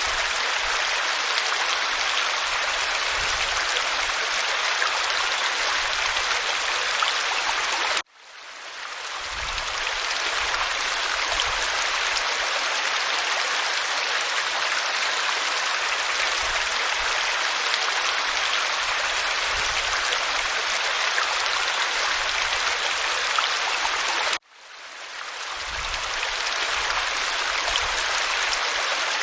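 Waterfall pouring over rock: a steady rushing hiss of falling water. Twice it cuts out abruptly, about a third of the way in and again near the end, each time fading back in over a second or two.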